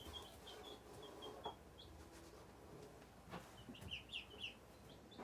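Baby chicks and ducklings peeping faintly: a run of short, high peeps in the first two seconds and another cluster near the end, with a couple of faint knocks in between.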